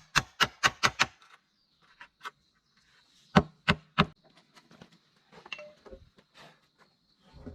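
A quick run of sharp knocks, about five in the first second, then a few scattered single knocks and softer handling noise.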